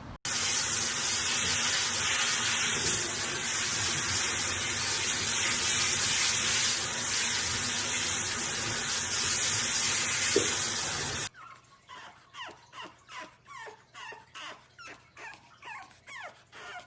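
A steady rushing noise for about eleven seconds that cuts off suddenly. Then a French bulldog puppy whimpers in short, repeated, falling cries, about two or three a second.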